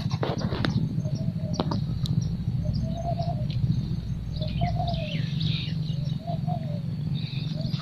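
Doves cooing in short repeated phrases while small birds chirp, over the steady low running of an idling engine.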